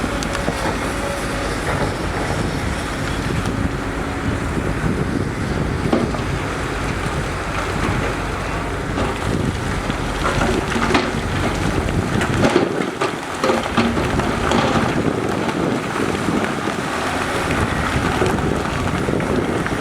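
Heavy earthmoving machinery running, with a steady low rumble and a few scattered knocks; wind buffets the microphone. The low rumble falls away about two-thirds of the way through.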